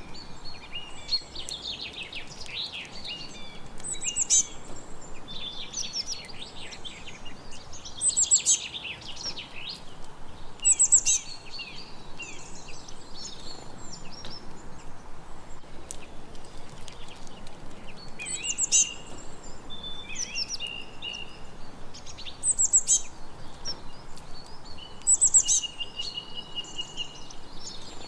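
Several songbirds singing and chirping over a steady background hiss, with short bright song phrases every few seconds.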